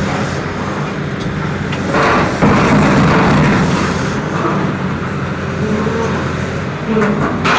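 Heavy diesel machinery running steadily, a low engine hum under a noisy rumble. It grows louder about two seconds in.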